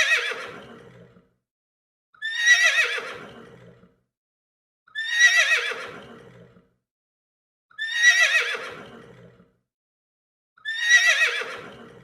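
Horse whinnying five times, about every two and a half to three seconds. Each near-identical call is a high, quavering neigh that falls in pitch and fades.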